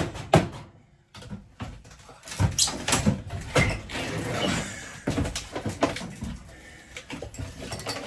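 A steady musical beat cuts off about a second in. Then come irregular knocks, clatter and creaks of cabinetry and panels being worked loose and pulled out of a camper interior.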